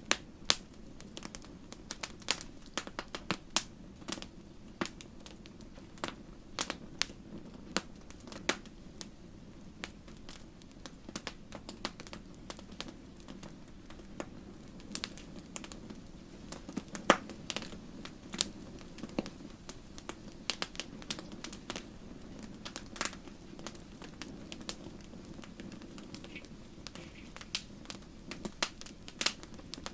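Campfire burning with irregular sharp crackles and pops from the burning wood over a steady low rumble of the flames.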